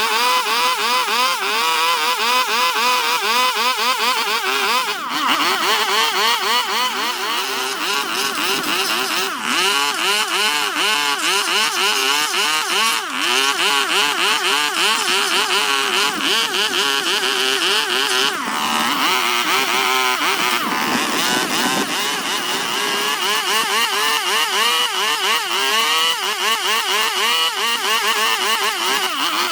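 Electric power carving tool cutting wood, its motor pitch dipping and recovering a few times a second as the bit is worked against the wood.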